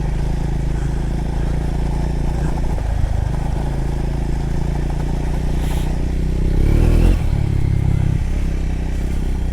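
Triumph Scrambler motorcycle engine running under way on a gravel road, with some clatter from the gravel. About six and a half seconds in the revs rise, then drop off suddenly just after seven seconds.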